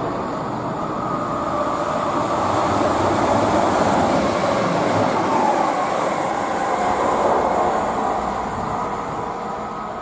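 A train running on the rails, its noise swelling to a peak about midway and fading toward the end, with faint steady whining tones over the rumble.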